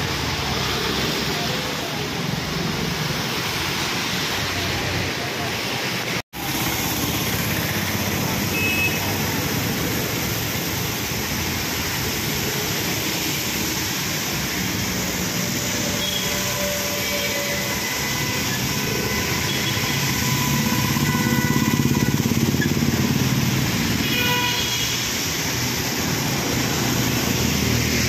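Heavy rain pouring onto a wet, flooded street, with cars driving through the water on the road. The sound cuts out for an instant about six seconds in and gets louder as a vehicle passes close a little after twenty seconds.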